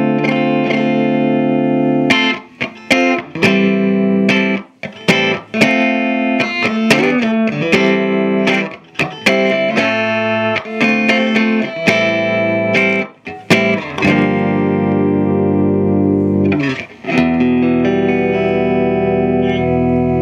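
Electric guitar played on its middle pickup through the Earthquake Engineering Atlas15, a 15-watt cathode-biased EL84 valve amp: a run of chords struck in quick succession with short gaps between them, giving way after about 14 seconds to longer ringing chords.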